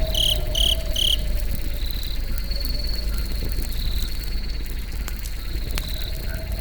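Crickets chirping in short repeated trills, with three louder, sharper chirps in the first second over a steady low rumble. Now and then a faint crackle of the campfire comes through.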